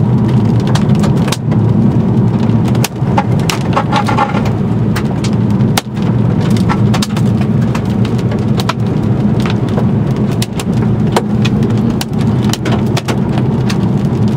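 Hard, solid hailstones about an inch across pelting a car's roof and windows, heard from inside the cabin: a dense, irregular clatter of sharp hits over a steady roar of falling hail and rain.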